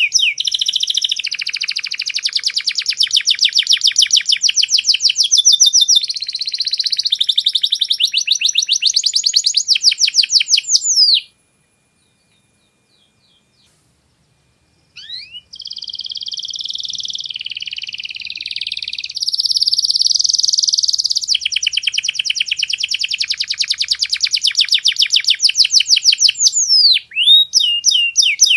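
Domestic canary singing long rolling trills of rapidly repeated high notes, changing from one trill to the next every second or two. The song breaks off for about four seconds in the middle, then starts again.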